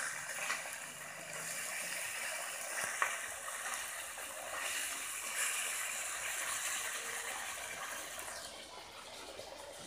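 Catfish pieces frying in hot oil in a wok: a steady sizzle with a couple of sharp clicks from wooden chopsticks against the pan. The sizzle thins near the end.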